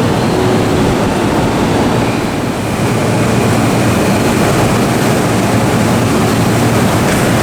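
Steady running noise of an electric commuter train passing close by, a dense rush of wheel and motor sound with a slight dip about two and a half seconds in.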